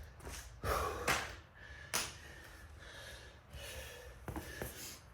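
A man breathing hard and gasping after a set of burpees, a few heavy, noisy breaths in and out.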